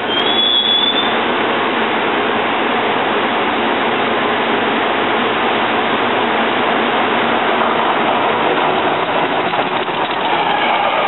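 Passenger trains passing close by on electrified track: a steady, loud rush of wheel-on-rail rolling noise, with a short high rising tone just after the start. Near the end a whine of several steady tones comes in as an AEM-7 electric locomotive draws alongside.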